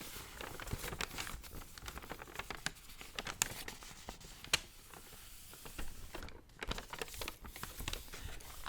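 Paper being crinkled and rustled by hand close to the microphone: dense, irregular sharp crackles, with a brief lull about six seconds in.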